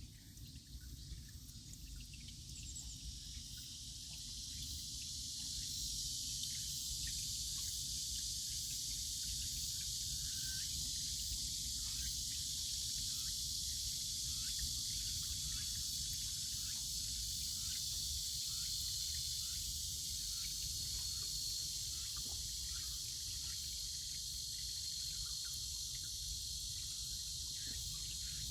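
A chorus of cicadas buzzing steadily, swelling over the first few seconds and then holding, over a low rumble.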